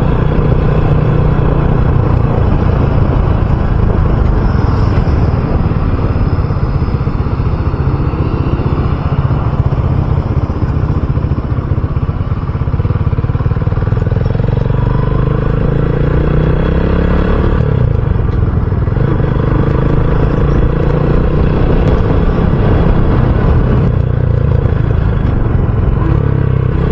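RUSI Classic 250 motorcycle engine running steadily on the move, with heavy low rumble of road and wind noise on the rider's microphone.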